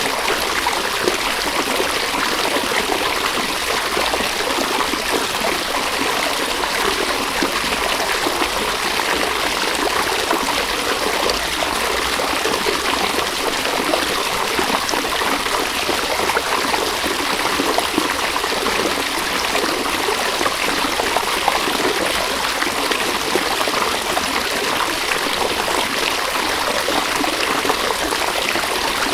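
River water flowing and babbling over stones, a steady, unbroken rush with fine splashing texture.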